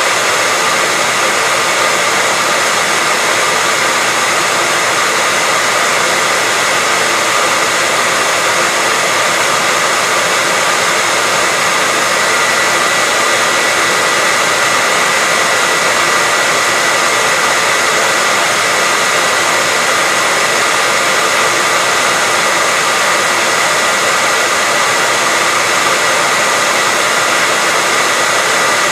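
Hair dryer running steadily: an even airy whoosh with a steady high whine from the motor and fan, used as white noise to settle a baby to sleep.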